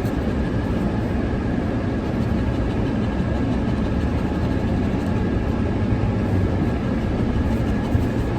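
Steady low rumbling outdoor background noise picked up by a camera's built-in mic, turned up in editing; no single event stands out.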